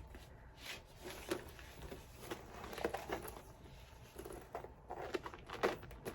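Handbag hardware and strap being handled while a strap is clipped onto a Louis Vuitton Multi Pochette: a string of irregular small clicks and light rustling.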